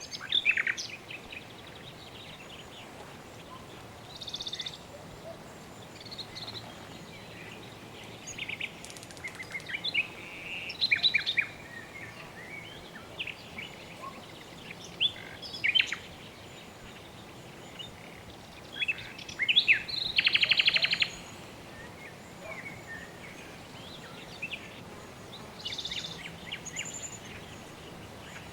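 Assorted birds chirping and calling in scattered bursts of short, high notes, with a longer buzzy trill about two-thirds of the way through, over a steady faint background hiss.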